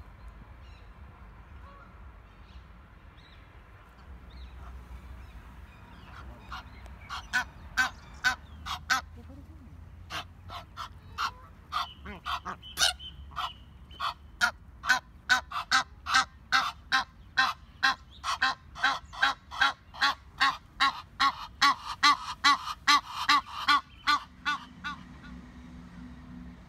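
Egyptian geese honking: a long run of loud, evenly repeated honks, about two to three a second, beginning about six seconds in and stopping shortly before the end.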